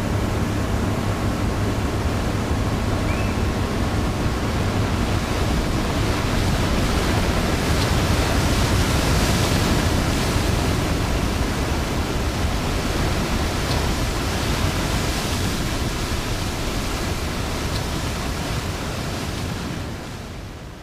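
The roar of Iguazu Falls: a loud, steady rush of falling water, fading out near the end.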